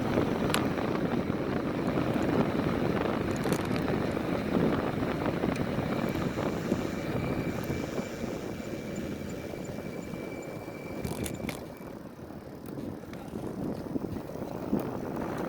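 Motorised trail bike riding along a bumpy trail: the motor runs steadily under wind and tyre rumble, with a thin high whine for several seconds in the middle, easing off briefly near the end before picking up again.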